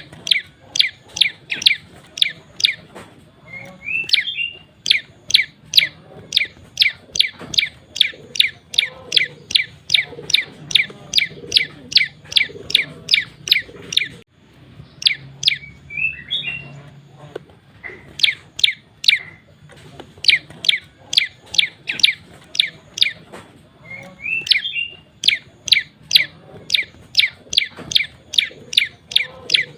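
Male prenjak lumut calling in long fast runs of sharp, high chips, about three a second, broken by brief pauses and a few short twittering phrases. It is the male's aggressive song used as a lure call for the species.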